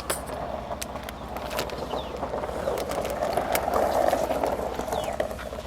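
A vehicle driving past, its sound swelling and then fading away, with scattered light clicks.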